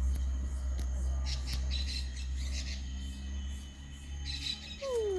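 Birds chirping in the background over a steady low rumble; near the end a cat starts a meow that slides down in pitch.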